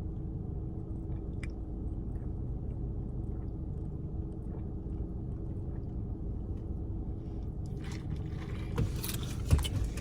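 Low, steady rumble inside a car, with a faint steady hum. A few knocks and some rustling come near the end.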